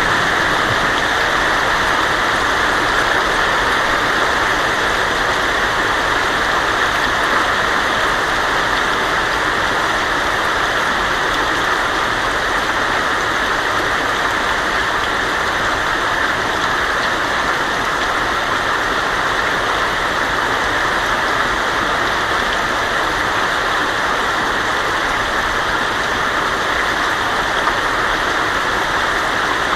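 Heavy rain pouring steadily on a tin roof, an even, dense hiss with no thunderclap.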